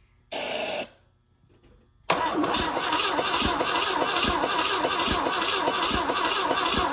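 Starter cranking the rebuilt 1962 Pontiac Tempest engine, which turns over with an even, slow pulse of about two strokes a second but never catches: the engine has no compression, which the owner traces to worn piston rings. A brief burst of noise comes about half a second in, before the cranking begins about two seconds in.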